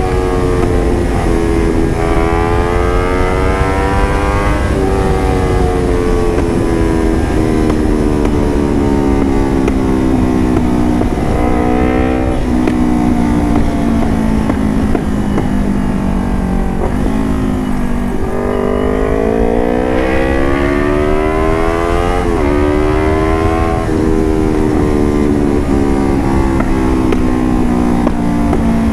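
Motorcycle engine running through an aftermarket carbon exhaust while being ridden, its pitch climbing under throttle and falling back several times: rising over the first few seconds, sinking slowly for about ten seconds, then climbing again after about eighteen seconds.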